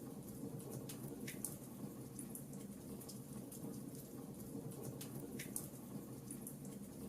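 Wood fire in a fireplace crackling: irregular sharp pops and snaps over a steady low hum, two louder pops about a second in and near the five-second mark.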